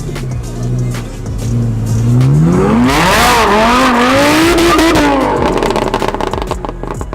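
Car engine revving up hard, then held at high revs that bounce up and down under a loud tire screech, as in a burnout or donuts; the revs and screech ease off near the end.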